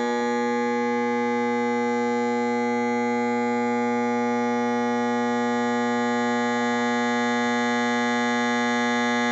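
Modified microwave-oven transformer, its high-voltage coil replaced by a low-voltage secondary, buzzing loudly and steadily under a heavy load of about 100 amps while it heats a piece of steel red hot. The buzz is a steady mains hum with many overtones and does not change.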